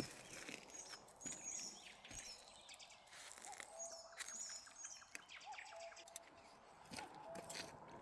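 Faint wild birdsong: quick high chirps in two short bursts, and a lower whistled call that rises briefly and then holds, repeated about three times, among scattered small clicks and rustles.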